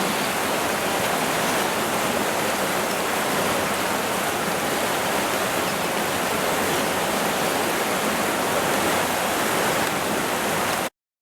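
Steady rush of river water, even and unbroken, cutting off suddenly near the end.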